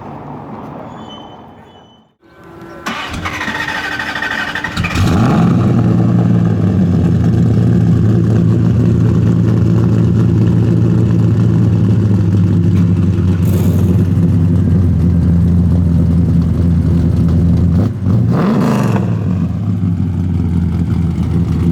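A custom Plymouth Road Runner's V8 being started: the starter cranks for about two seconds, then the engine catches and settles into a loud, steady idle, with one short blip of the throttle near the end.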